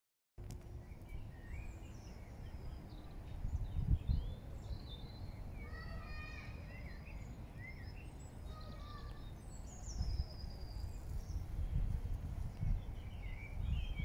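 Birds singing in the background, a scatter of short chirps and whistles, over a low rumble on the microphone that swells about four seconds in and again from about ten seconds.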